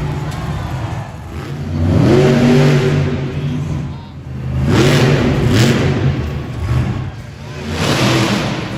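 Monster truck engine revving hard in repeated surges about three seconds apart, the pitch climbing and the sound swelling with each one.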